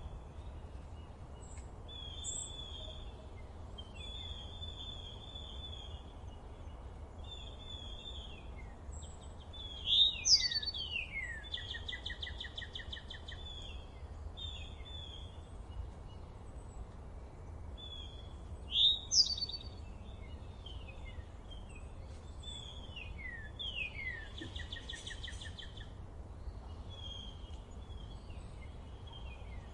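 Forest songbirds singing: short whistled notes and falling slurs repeated every second or two. Twice, about a third and two thirds of the way through, a louder song opens with a sharp high note and ends in a buzzy trill. A steady low rumble runs underneath.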